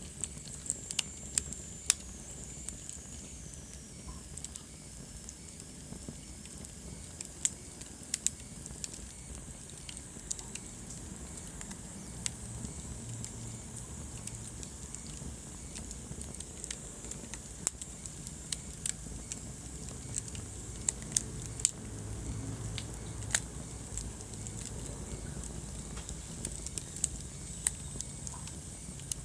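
Wood fire burning in a fireplace: irregular sharp crackles and pops over a low, steady rumble of flames. A thin, high whistle slides down in pitch about a second in.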